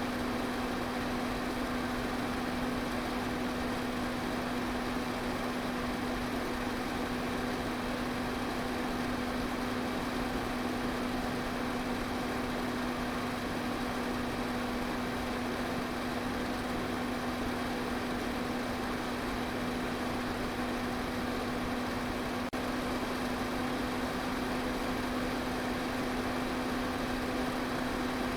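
Electric fan running steadily: an even rush of air with a constant low motor hum.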